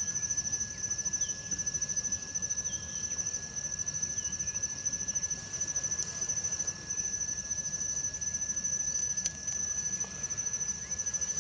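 Crickets trilling steadily: one high, finely pulsing trill and a second, lower steady tone, over a low rumbling background noise.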